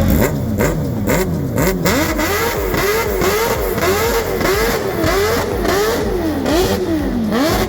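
A vehicle engine revved again and again in quick blips, its pitch climbing and falling back a bit more often than once every half second. Sharp cracks come in the first couple of seconds.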